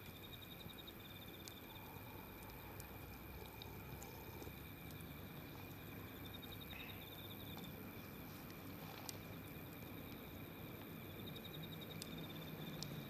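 Wood fire burning quietly over a steady hiss, with sparse sharp crackles and pops. An insect chirps in short pulsed trills three times, about five seconds apart.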